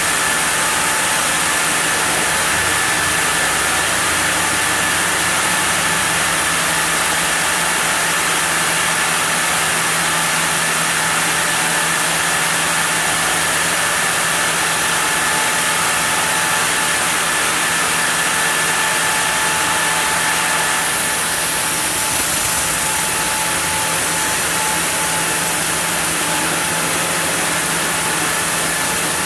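Sawmill saw running steadily while sawing a block of zelkova: a constant loud machine hum with a steady whine over it. A high hiss in the sound drops away about two-thirds of the way through.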